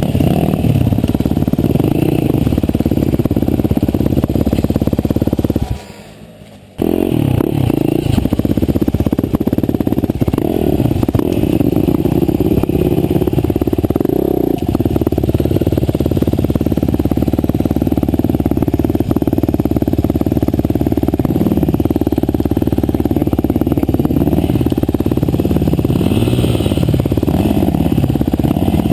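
Husqvarna TE511 single-cylinder four-stroke dirt bike engine running under varying throttle, its pitch rising and falling as it is ridden along a trail. About six seconds in the sound drops away sharply for about a second, then returns.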